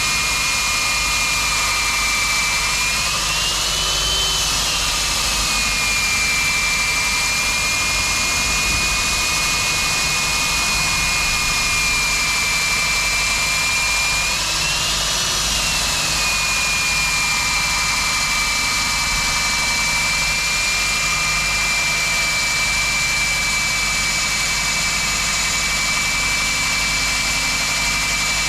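Core drill with a 110 mm bit cutting through a concrete wall: a steady motor whine under load, rising briefly in pitch twice.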